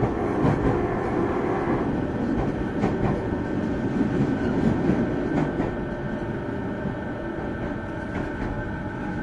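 Running noise heard inside a JR 209 series electric train's motor car at speed: a steady rumble of wheels on rail under a steady high tone, with a few short clicks of the wheels over the track about three and five and a half seconds in.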